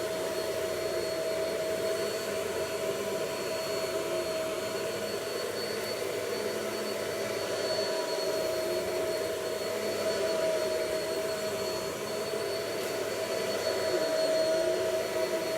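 Vacuum cleaner running steadily, with a constant motor whine over a rush of air.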